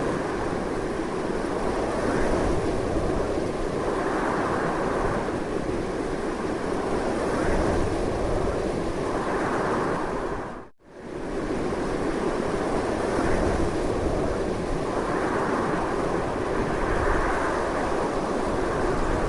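Strong, continuous wind rushing, with slow swells. About halfway through it fades out almost to silence and fades back in within a second.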